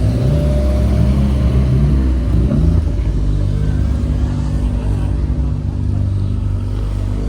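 A car engine running close by with a steady low rumble, its pitch wavering in the first couple of seconds before it settles.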